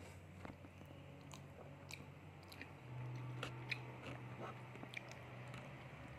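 A child chewing soft martabak manis (sweet thick pancake), with faint scattered mouth clicks and smacks. A faint low hum runs underneath and grows a little louder about halfway through.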